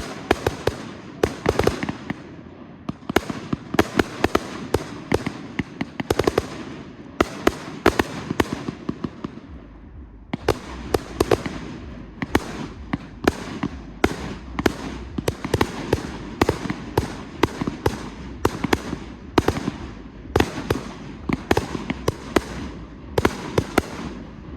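Display fireworks: a rapid, irregular barrage of shell bursts and bangs over continuous crackle, with a brief lull about ten seconds in.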